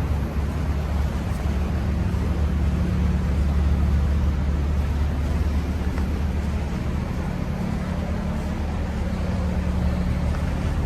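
Big-block V8 of a Pro Stock drag race car idling steadily with a deep, even drone.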